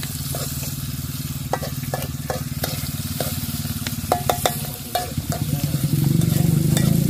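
Chopped chillies and shallots sizzling in hot oil in a black wok, with a spatula scraping and knocking against the pan in a run of sharp clicks. An engine runs steadily underneath and gets louder about six seconds in.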